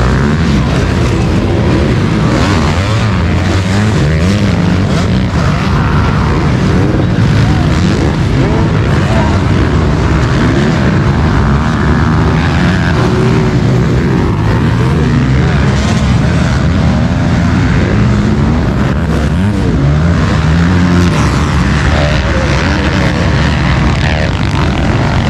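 Several 450cc motocross bikes racing, their engines revving up and falling back over and over in overlapping waves.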